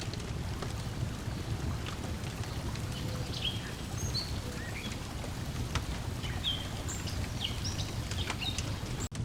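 Lakeside ambience: water lapping in a steady low wash, small birds chirping with short rising and falling calls, and a wood fire crackling with scattered small pops. The sound cuts out for an instant near the end.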